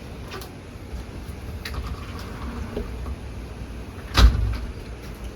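Sliding door being rolled open: a low rolling rumble with a few light clicks, and one heavy thud about four seconds in as it reaches its stop.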